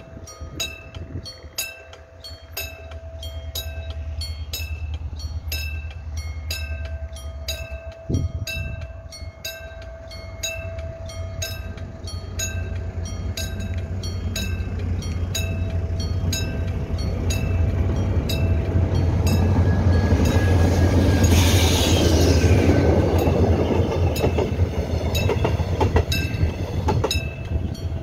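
Level-crossing warning bell ringing steadily in a quick regular beat as a diesel locomotive hauling a two-car Mugunghwa-ho train approaches and passes. The engine and wheel rumble swell to their loudest about three-quarters of the way through, then ease. A brief high, falling sound cuts through at the loudest point.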